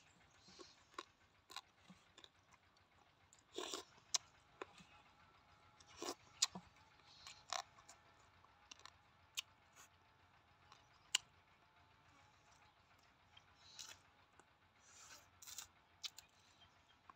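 A man chewing roasted rat and raw vegetables close to the microphone: quiet, scattered crunches, clicks and mouth smacks, with a few louder crunches.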